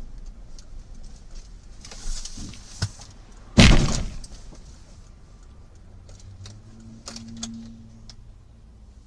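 A loud crash of a vehicle collision about three and a half seconds in, dying away over half a second, with sharp clicks and rattles of debris or breaking glass before and after it.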